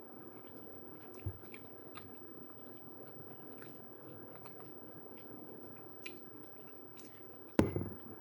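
A person chewing food close to the microphone, with small wet mouth clicks over a steady low room hum. About a second in there is a light knock, and near the end a sharp, louder knock, like something hard set down on a table.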